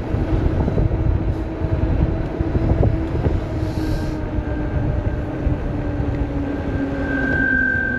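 Wind and tyre rumble while riding an electric bike, with a steady hum that drops slightly in pitch as it slows. Near the end, the new hydraulic disc brakes squeal on a steady high note as they are applied: they are not yet bedded in.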